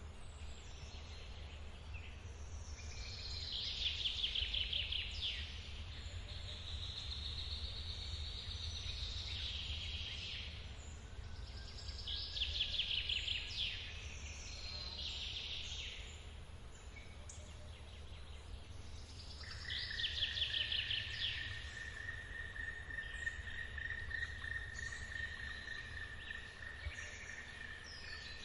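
Forest birds singing, a quick trilled phrase repeated about every eight seconds. Over it runs a low steady rumble of running water. About two-thirds of the way through, a steady high thin tone like an insect's drone starts and holds.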